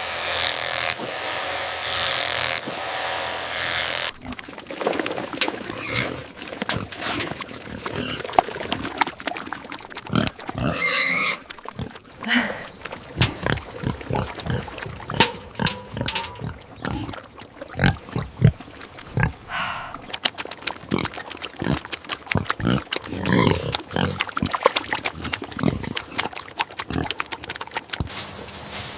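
Pigs grunting and snorting in short, irregular bursts, with a wavering squeal about eleven seconds in. The grunting is preceded by a steady rough noise lasting the first four seconds.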